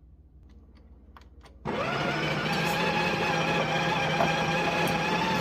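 Electric coffee machine switching on about two seconds in and running with a steady, loud motor hum.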